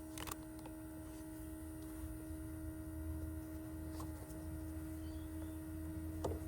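Smoke leak detector machine running with a steady hum while it builds smoke to push into the engine's intake; a faint click just after the start.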